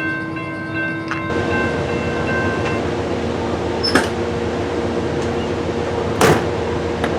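A train passing close by: a horn chord sounds and cuts off about a second in, then the steady rumble and rattle of the train rolling past, with two sharp bangs along the way.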